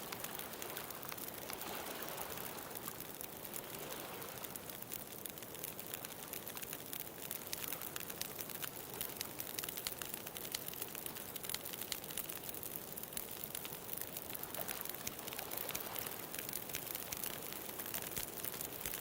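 Bonfire crackling with a rapid stream of small pops over a steady hiss, with a soft wash of ocean waves swelling about two seconds in and again later.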